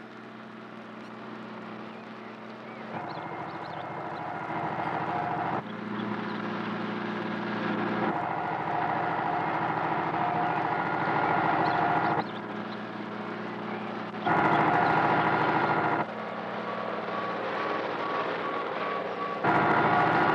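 Tractor engines running under load, the engine note and loudness changing abruptly every few seconds as the shot changes, getting louder overall.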